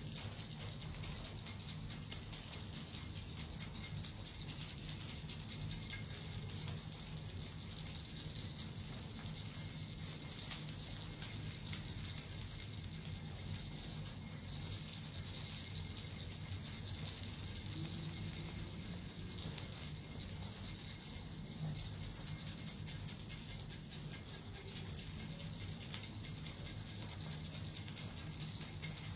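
Suzu bells and a metal rattle shaken continuously in an unbroken, steady jingling with a high ringing shimmer.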